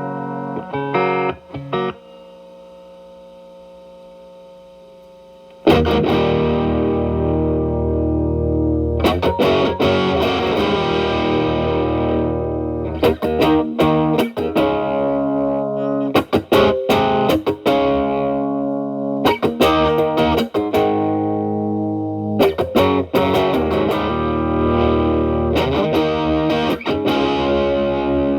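Electric guitar (Telecaster) played through an E.W.S. Brute Drive BD-1 distortion pedal set to low gain (gain 1) into a Marshall Valvestate amp's clean channel: a few short chord stabs, a quieter pause of a few seconds, then loud ringing chords and choppy riffs from about six seconds in.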